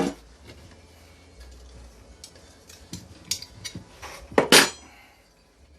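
A few sharp clinks and knocks of metal tools and hardware being handled and set down, the loudest about four and a half seconds in.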